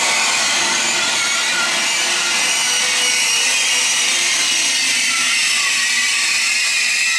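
Coaches of a passing train rolling close by along a station platform: a steady, loud hiss of wheels on rail with faint wavering high-pitched whine, without break or change.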